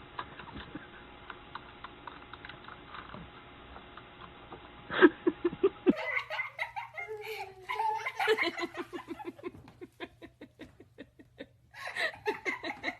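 People laughing in bursts of rapid, repeated ha-ha pulses, starting about five seconds in and continuing in several bouts; before that, a quiet stretch with faint small taps and clicks.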